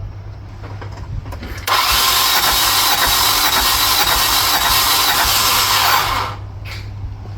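Loud, steady hiss of escaping air during a compression test. It starts abruptly about two seconds in and cuts off after roughly four and a half seconds.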